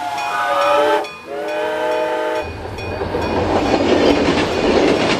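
Train horn sounding two blasts, each a chord of several tones lasting about a second, then from about two and a half seconds in the rumble and clatter of a train passing, dying away at the end.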